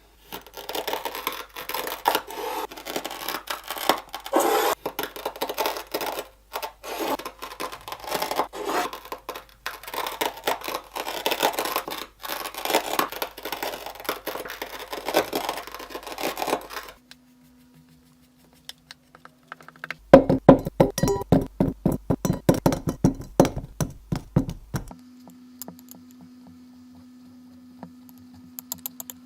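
Kinetic sand being worked by hand: a dense, crackly scraping for about seventeen seconds. After a short pause comes a loud run of quick, sharp crunching strokes for about five seconds, then a faint steady hum.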